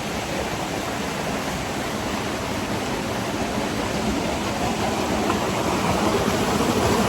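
Steady rushing of a waterfall and river, a constant roar of falling water that grows slightly louder toward the end.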